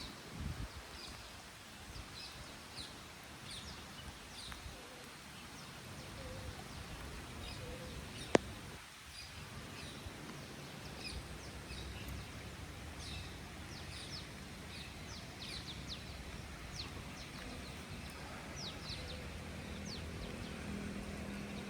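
Small birds chirping in many short, quick downward notes over a steady background hiss, with a single sharp click about eight seconds in.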